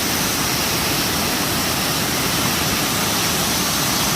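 Waterfall rushing steadily, loud and roaring with high flow after rain.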